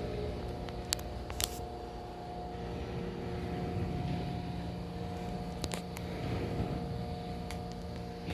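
Steady machine hum, made of a few held tones over a low rumble, with a few light clicks about a second in and again near six seconds.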